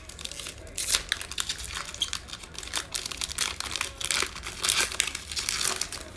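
Plastic trading-card pack wrapper crinkling and being torn open, with irregular crackles throughout.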